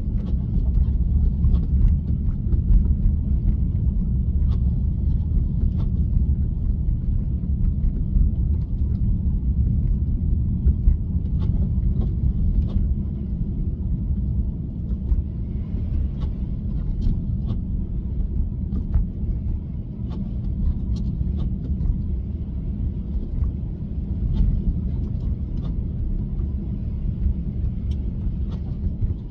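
Steady low road and tyre rumble of a Tesla driving on a snowy road, heard from inside the car, with scattered faint ticks.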